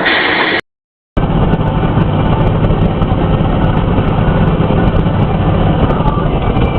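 Steady vehicle engine and road noise with a strong low rumble. It cuts to silence for about half a second just under a second in, then resumes louder in the low end.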